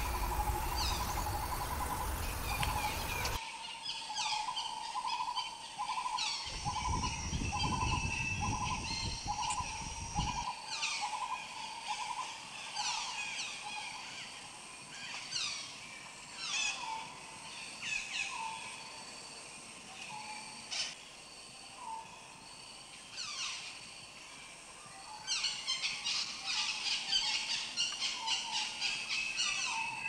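Birds calling: a short note repeated over and over, alongside repeated downward-sweeping chirps. The notes come quickly at first and then space out. Bursts of noise come early on, low and rumbling in the second of them.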